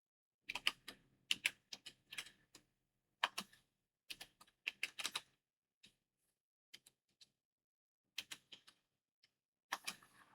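Typing on a computer keyboard: short runs of quick keystrokes broken by pauses, with a few single key presses in between.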